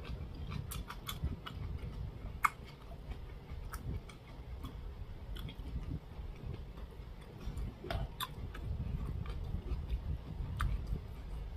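A person chewing a mouthful of food, with irregular sharp clicks scattered through, the loudest about two and a half seconds in.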